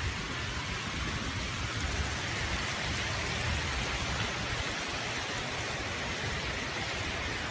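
Heavy rain falling steadily, a continuous hiss with an uneven low rumble beneath it.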